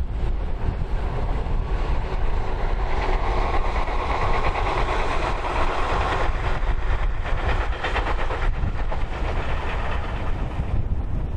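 Tobu 6050 series electric train passing, its wheels clacking rapidly over the rail joints. The noise builds about two seconds in, is loudest midway and dies away near the end. Heavy wind buffets the microphone throughout.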